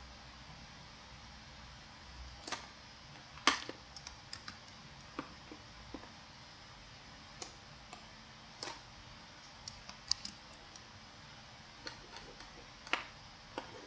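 Computer mouse clicking at irregular intervals while a CAD sketch is drawn: about fifteen sharp, short clicks over faint room hiss, the loudest about three and a half seconds in.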